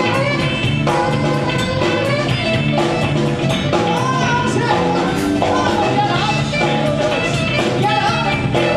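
Live band playing with drums keeping a steady beat, with a singing voice or lead instrument over it.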